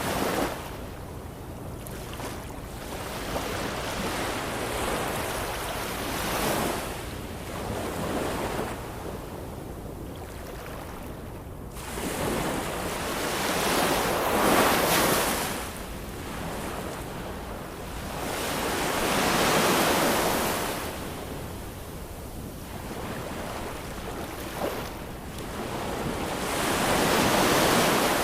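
Ocean waves breaking and washing on the shore, each surge swelling and fading every several seconds, with four big breakers, the loudest about fifteen seconds in.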